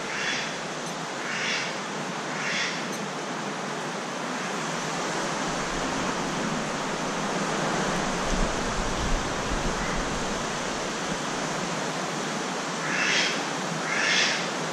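Steady rushing noise of the typhoon's heavy rain and wind. A short, high animal call repeats about once a second, three times at the start and twice near the end.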